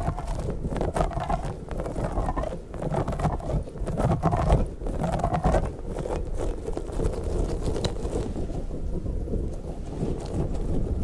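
Orange squishy slug toy squeezed and handled close to the microphone: irregular crackling and rubbing noise, with the high crackle dropping away about eight seconds in.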